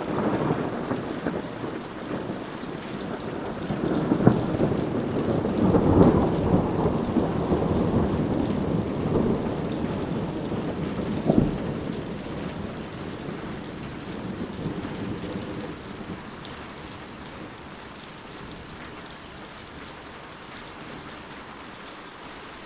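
Steady rain falling, with a rumble of thunder that swells from about four seconds in, gives a sharp crack a little before the middle, and rolls away, leaving only the rain hiss in the second half.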